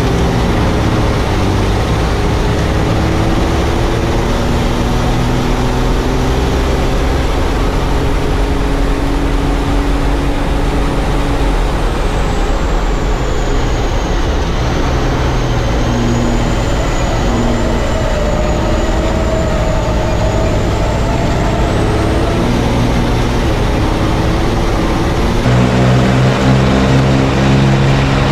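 Diesel engines of racing trucks running hard, their pitch rising and falling as they rev and change gear. About three-quarters of the way through, a louder, deeper engine note suddenly takes over.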